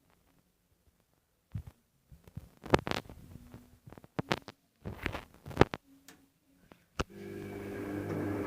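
AEG washing machine pausing between phases: a few irregular knocks and clicks from the drum, then a sharp click about seven seconds in as the motor starts turning the drum again, running up with a rising steady hum.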